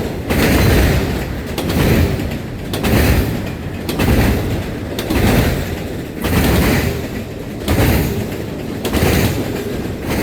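Freight train cars rolling past over a steady rumble, their wheels knocking over rail joints in a regular beat about once a second.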